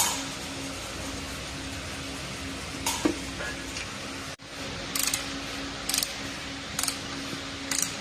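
Hand tools working on an engine during assembly: a sharp metallic click about 3 seconds in, then short crisp ticks about once a second, over a steady hum.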